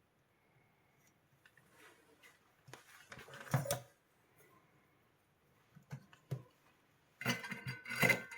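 Small hard objects being handled and set down, clattering and knocking in two bursts, about three seconds in and again near the end, with a couple of single clicks between.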